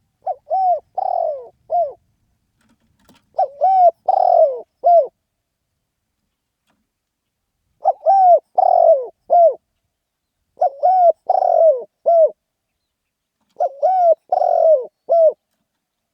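Spotted dove cooing: five repeated phrases of about four notes each, a few seconds apart.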